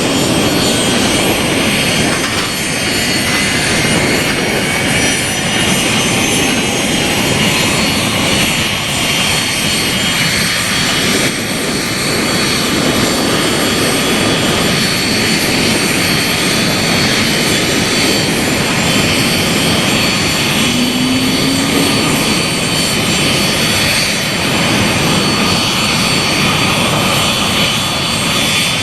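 Avro RJ100 jet airliner's four turbofan engines running steadily and loudly, a broad rush of jet noise with high whining tones on top.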